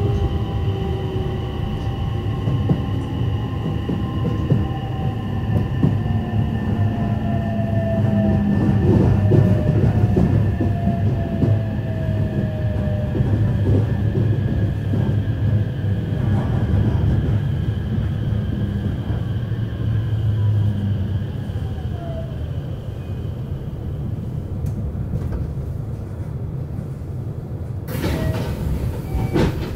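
JR West 321 series electric train running: a steady low rumble with a high electric whine, and tones that slide down in pitch now and then. A sudden loud noise comes near the end.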